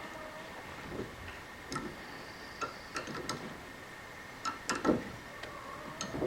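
Hand tap being turned in a threaded hole: irregular metallic clicks and ticks from the tap and tap wrench as the threads are cut, with the loudest pair about five seconds in.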